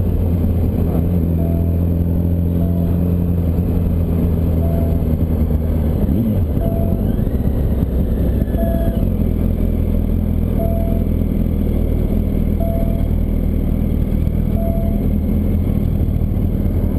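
Yamaha R1's inline-four engine running at a steady pitch, with a brief change about six seconds in. A faint short beep repeats about every two seconds.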